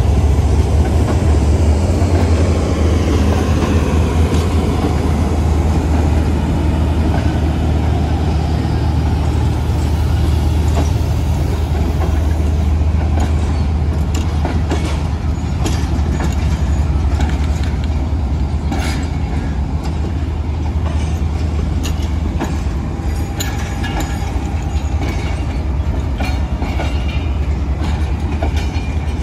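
A departing diesel-hauled passenger train's coaches rolling past on the track, with a steady low rumble throughout. From about halfway on, the wheels click over the rail joints again and again.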